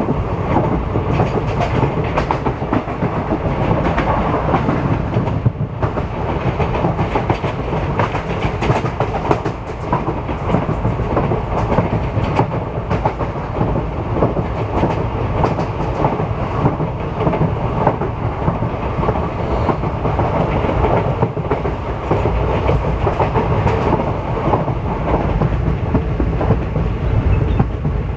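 Passenger train running along the track, its wheels clattering over rail joints with many sharp clicks over a continuous rumble.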